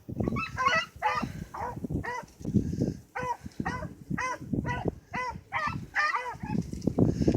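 Beagles baying on a rabbit's trail: a rapid string of short, high, pitched bawls, about two or three a second, with low wind rumble on the microphone underneath.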